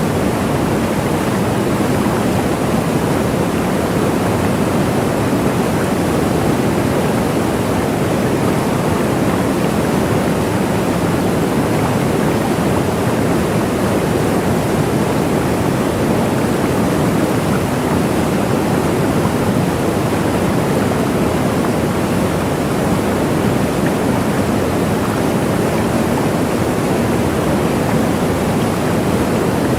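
Waterfall: water falling and rushing in a steady, unbroken roar-like hiss with no distinct splashes or changes.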